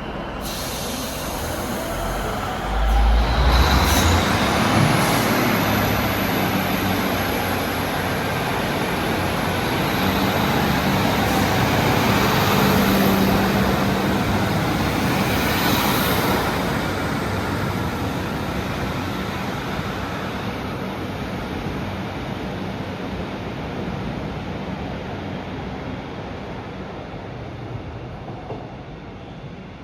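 Train passing through the station. Its noise swells sharply about three seconds in, a high whine rises and then holds, and the sound fades slowly toward the end.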